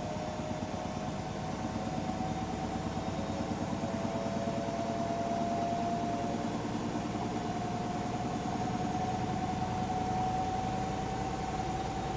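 Hotpoint washing machine running, its motor giving a steady hum with a whine that slowly rises in pitch.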